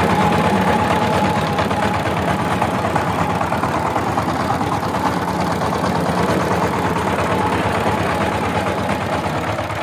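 Diesel power tiller engine running steadily, a fast even knock with a steady high whine over it.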